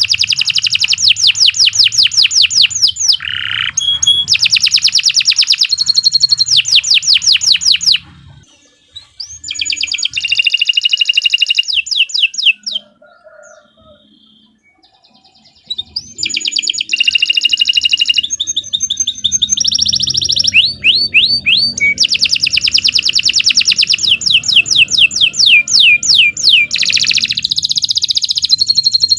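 Domestic canary singing long, rapid trills of repeated high notes, falling silent twice for a few seconds in the middle.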